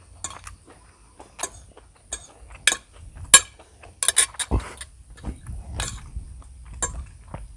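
Eating sounds: cutlery clinking against a bowl, with scattered sharp clicks. The loudest clink comes a little past three seconds in, and there is a dull knock about a second later.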